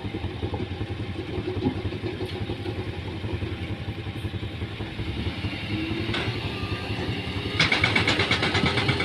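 An engine running steadily at idle, with fast even pulses. From about seven and a half seconds in it gets louder and takes on a busier, rattling edge.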